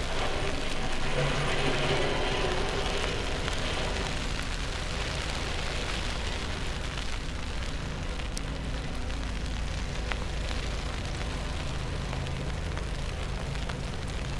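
Steady city street noise in a snowstorm, a low rumble under a hiss, with fine crunching clicks typical of footsteps on snow. Some faint pitched sound in the first few seconds fades out.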